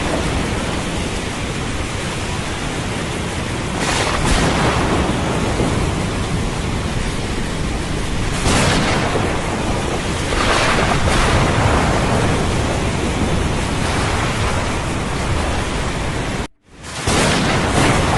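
Thunderstorm over the sea: steady heavy rain noise with waves surging and thunder rumbling, swelling several times. Near the end the sound cuts out for a split second and comes straight back.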